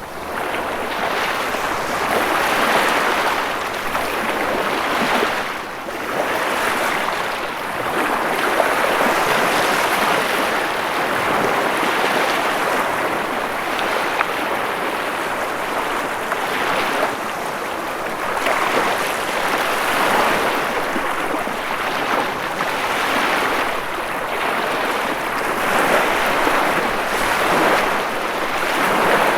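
Ocean waves breaking and washing on a shore in a continuous rushing surf that swells and eases every few seconds.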